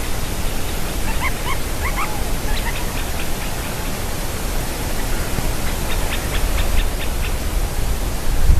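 Woodpeckers calling in a quarrel: short sharp call notes, a few rising squeaky notes between one and three seconds in and a quick run of repeated calls around six to seven seconds, over a steady low rumbling hiss.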